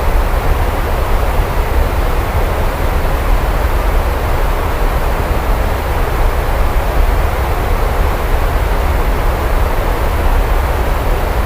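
Steady rainfall as an even wash of noise with a deep low rumble underneath, without breaks or single claps.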